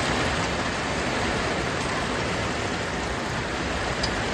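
Heavy rain from a tropical-storm rain band falling steadily, a continuous even hiss.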